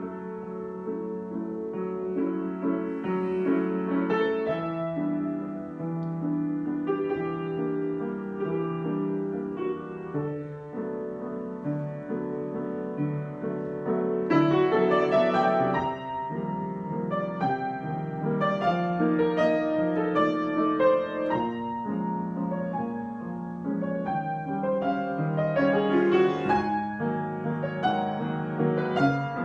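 Solo piano improvisation: slow sustained chords that grow busier and louder, with more high notes, about halfway through.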